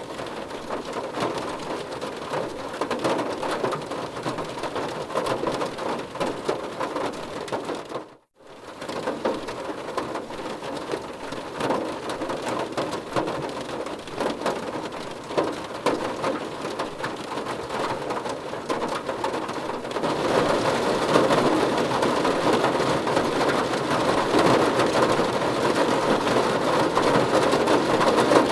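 Steady heavy rain falling and pattering on a surface. It cuts out to near silence for a moment about eight seconds in, then comes back, and grows louder about two-thirds of the way through.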